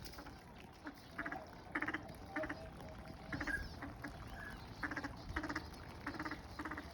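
Whooper swans calling: about a dozen short, pitched calls in quick succession, some overlapping.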